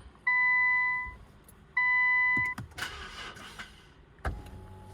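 Two long electronic beeps about a second apart, then a brief whirring rush and a sharp click near the end.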